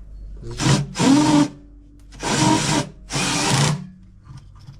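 Power drill-driver running in four short bursts, about half a second each, driving in the screws that join the two halves of a washing machine tub.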